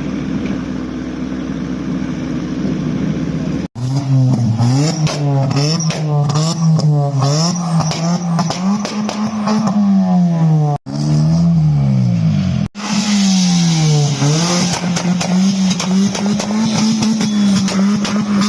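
Car engine idling steadily, then after an abrupt cut revved repeatedly, its pitch rising and falling many times in quick blips, before holding at a steady raised rev near the end. The sound breaks off sharply twice more in the middle, as at edits.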